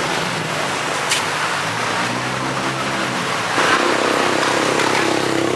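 Road traffic: motor vehicle engines running steadily, with a sharp click about a second in.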